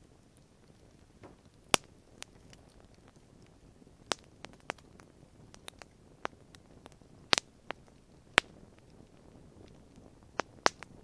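Wood fire crackling: irregular sharp pops and snaps of burning wood, a few of them loud, over a faint low hiss.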